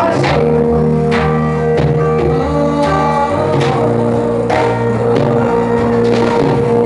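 Live gospel band music: sustained chords and bass with drums striking roughly every second, with singing.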